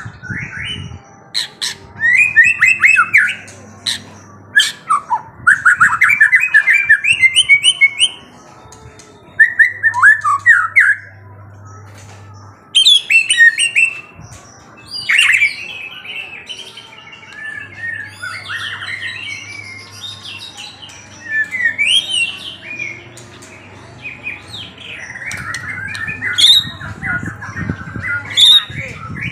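A songbird singing in bursts of quick, repeated chirping notes, each phrase lasting a second or two, with short pauses between.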